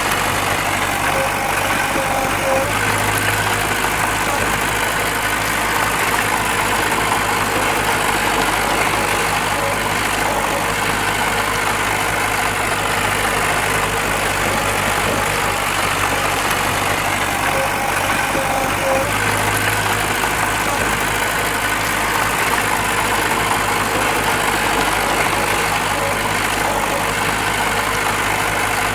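Heavy diesel engine of earthmoving machinery running steadily, with no sharp impacts.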